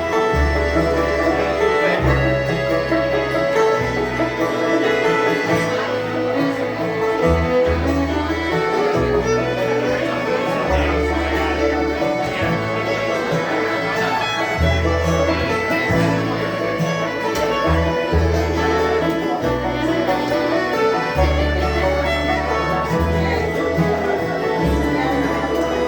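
Bluegrass band playing an instrumental passage, with the fiddle out front over banjo and guitar and a bass line moving note to note underneath.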